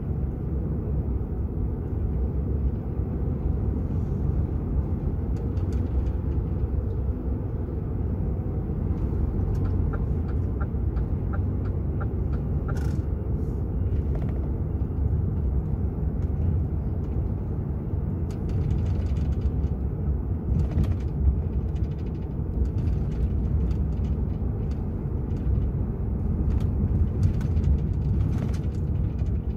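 Cab noise of a DAF XF 480 truck on the move: the diesel engine and road rumble run low and steady throughout. A short run of even ticks comes about ten seconds in, and light clicks are scattered through the second half.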